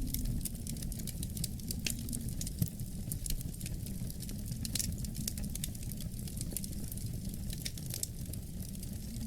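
Wood fire crackling, with many small sharp pops scattered irregularly over a steady low rumble of the flames.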